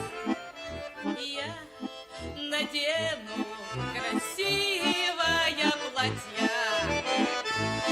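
Accordion playing an instrumental interlude in a slow folk song: a melody over a steady bass-and-chord accompaniment.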